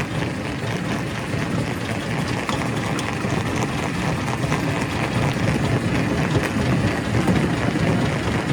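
Quarry primary rock crusher running: a steady, heavy mechanical din with scattered sharp knocks of stone.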